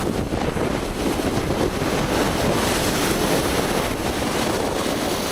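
Steady rush of strong wind and surf, with wind buffeting the microphone.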